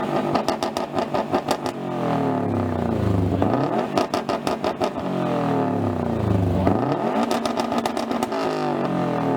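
A car engine revved hard through its exhaust three times. Each time the pitch climbs, holds at the top with a rapid stutter, and falls back.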